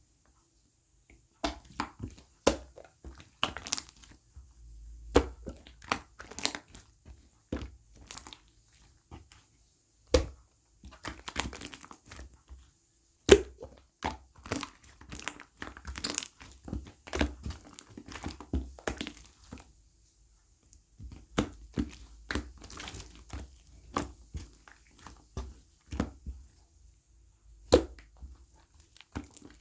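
Close-up handling sounds: irregular crinkling, crackling and light tapping, like paper or plastic packaging being handled, with brief pauses.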